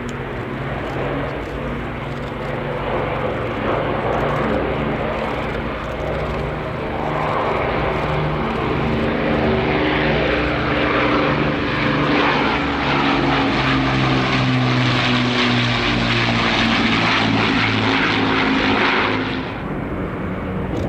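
Avro Lancaster's four Rolls-Royce Merlin piston engines running in a propeller flypast, growing louder about halfway through and falling away sharply near the end.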